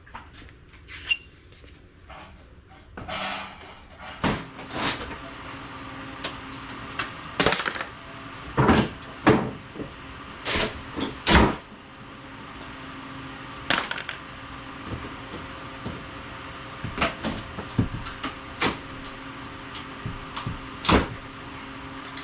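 Irregular knocks, bangs and clatters of hand work at a wall, as an opening is cut and broken out behind the removed water heater to reach the hot-water manifold. The knocks are loudest in clusters near the middle and again near the end, over a faint steady hum.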